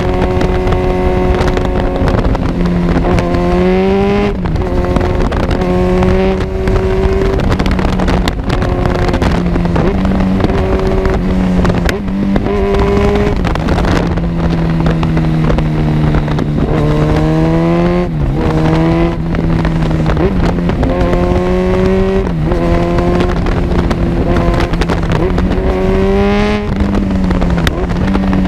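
Kawasaki Z1000 inline-four engine running through an Arrow full exhaust while riding. The note mostly holds steady, with about five short rises and falls in pitch as the throttle is opened and eased off, over steady wind noise and a few brief sharp cracks.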